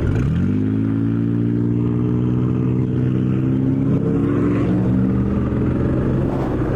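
Kawasaki KLR650's single-cylinder engine pulling away, rising in pitch for about half a second, then running at a steady speed.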